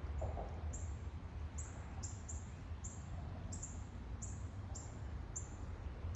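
A small bird repeating short, very high, slightly falling chirps about every half second, over a steady low outdoor rumble.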